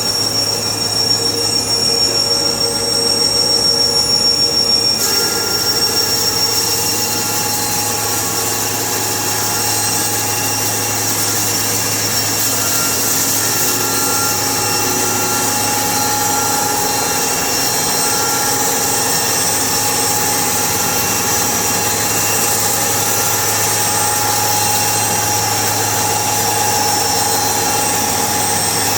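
Sawmill machinery running steadily with high whining tones; a hiss joins in about five seconds in and stays.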